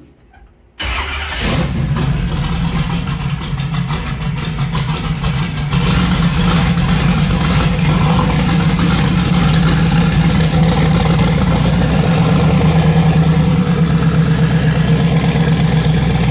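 Twin-turbo LS V8 engine in a Chevy S10 starting about a second in, running unevenly for a few seconds, then settling into steady running. The open vacuum port on the intake that had let it race on the first attempt is now plugged.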